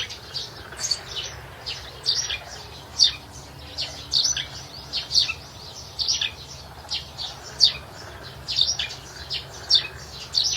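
Birds chirping: short, high chirps repeated about twice a second, in an uneven rhythm.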